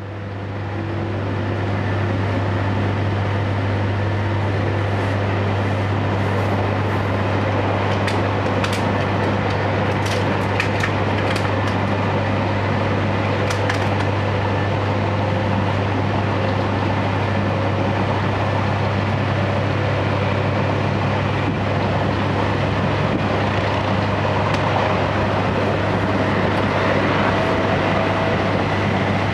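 Interior running noise of a JR Hokkaido Series 711 electric train: a steady deep hum under a broad rumble, fading in at the start. There are a few light ticks about a third of the way in, and a faint tone slowly rises in pitch through the second half.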